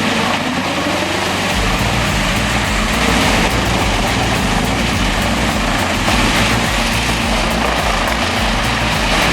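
Large wood chipper running, a loud steady mechanical din, under background music whose bass line comes in about a second and a half in.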